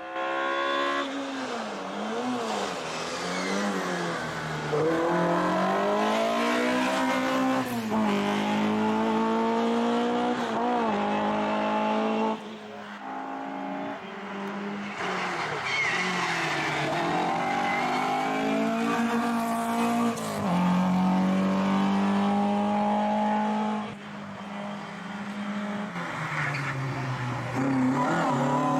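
Race car engine at full throttle up a hillclimb course, its pitch repeatedly climbing and dropping as it shifts up through the gears. Around halfway and again near the end it goes quieter for a couple of seconds as the driver lifts off for corners, then picks up again.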